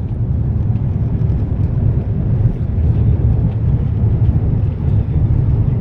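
Passenger airliner landing: a steady, heavy low rumble with no breaks.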